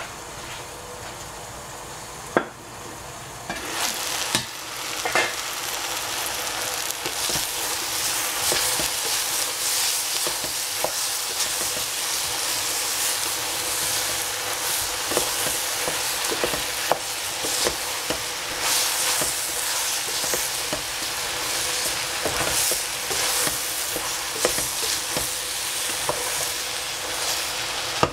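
Chopped vegetables frying in a stainless steel pot, a steady sizzle broken by the scrape and clack of a wooden spatula stirring them. A single sharp knock comes a little over two seconds in as the lid comes off, and from about three and a half seconds the sizzling is louder, with many small clacks.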